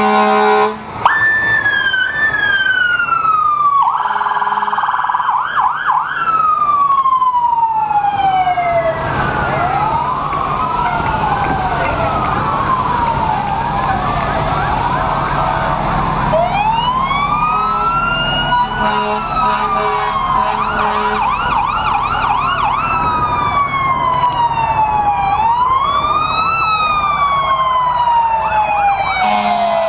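Several emergency vehicle sirens sounding together, overlapping wails that slowly rise and fall, broken by bursts of fast yelping. A horn blast is heard right at the start.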